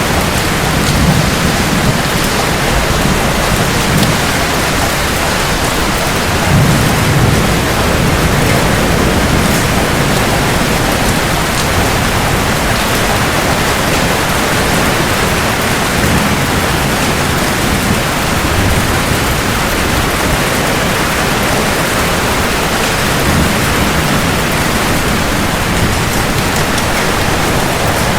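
Heavy, steady rain falling on hard surfaces, with low rolls of distant thunder swelling a few times, most strongly about a second in and again around seven seconds in.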